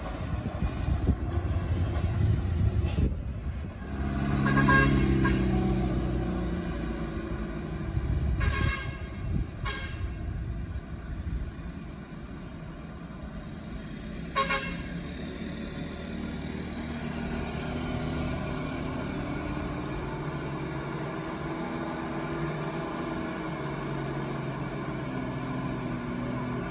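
Heavy sugarcane-laden truck's diesel engine running with a low rumble. A horn sounds for about two seconds some four seconds in. A few short sharp sounds follow, and the engine settles into a steady drone in the second half.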